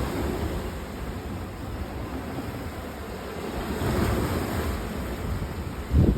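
Sea waves and wind making a steady rushing noise, swelling about four seconds in. Near the end comes a short, heavy low buffet, like a gust of wind hitting the microphone.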